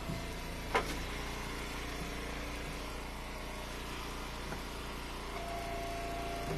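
Engine of a hydraulic log splitter running steadily, with one sharp knock of ash wood about a second in. A steady whine comes in near the end.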